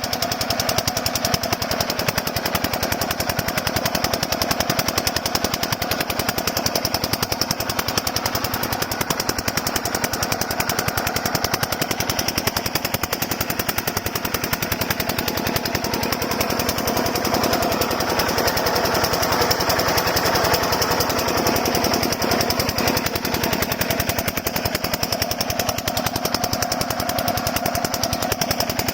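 Small single-cylinder diesel engine of a 5 HP water pump running steadily, its exhaust beating in a rapid, even stream of knocks.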